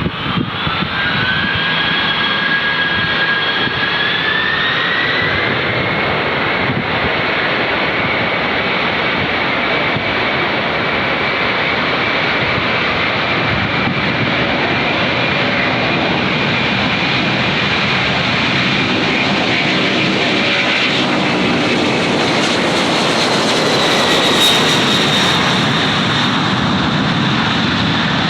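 Jet airliner's engines running loud, a steady roar with a high whine that rises in pitch about five seconds in, then holds steady as the engines spool up.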